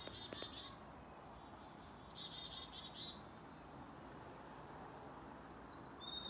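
Wild birds chirping faintly outdoors: two short rapid chirping phrases about two seconds apart, then a brief high whistle near the end.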